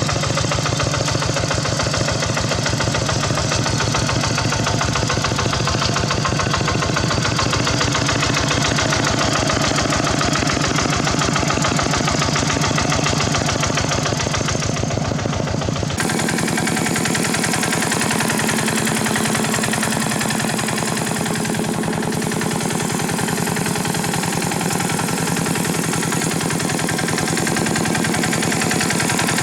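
Khmer farm tractor engine running steadily, with fast, even firing pulses. About sixteen seconds in, the sound changes abruptly and the deepest part drops away, then it runs on at the same loudness.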